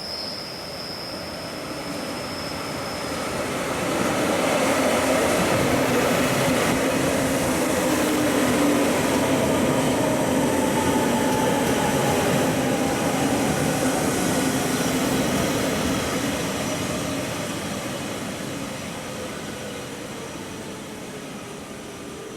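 JR Hokkaido 733-series electric multiple unit arriving and braking: the rumble of wheels on rail swells as the cars come alongside. The electric motor whine slides down in pitch as the train slows, then the noise dies away as it draws to a stop.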